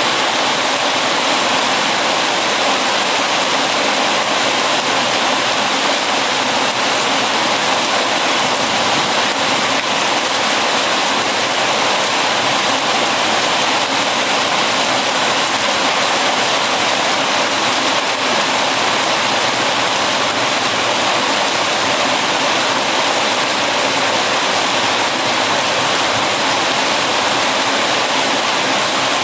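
Steady heavy rain, even and unbroken, with no single drops or crackles standing out.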